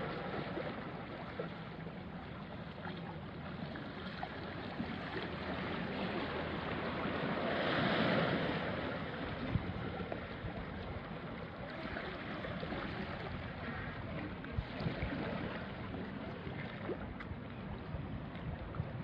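Small waves washing onto a rocky shore, one wave swelling to a louder wash about eight seconds in, with light wind on the microphone.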